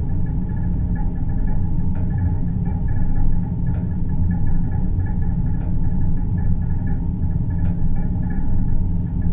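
Synthesized deep-space ambience: a steady low rumbling hum. It carries a faint fluttering tone higher up and a faint click about every two seconds.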